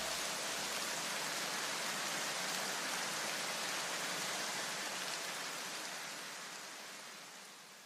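A steady, even hiss like rain, with almost no low end, fading away over the last couple of seconds.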